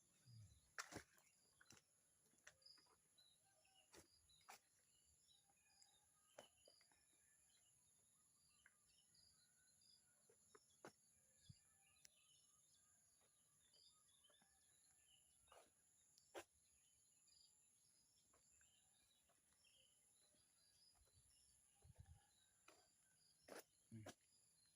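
Faint woodland ambience: scattered small bird chirps over a steady high hiss, with occasional soft clicks.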